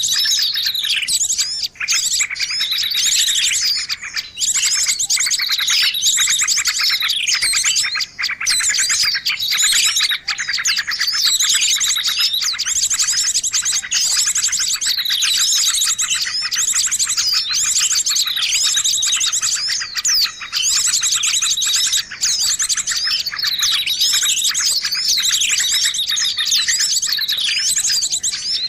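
Noisy mixed chorus of many birds chirping and trilling at once, with high calls sweeping downward over and over every second or two.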